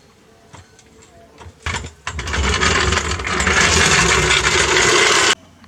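A few faint clicks and knocks, then a power tool starts about two seconds in and rattles loudly for about three seconds before cutting off suddenly.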